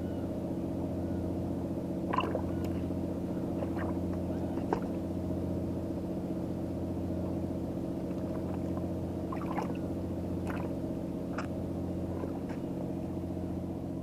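An engine running steadily at idle, a low even hum. A few faint clicks and short chirps sound over it, the sharpest about two seconds in and again near the five-second mark.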